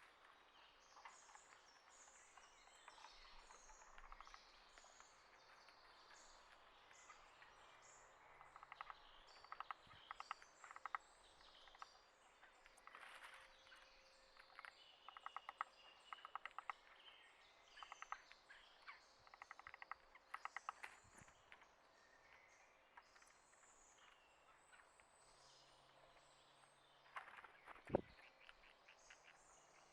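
Faint wild songbirds chirping and calling, with bursts of rapid chip notes through the middle. One sharp tap near the end stands out as the loudest sound.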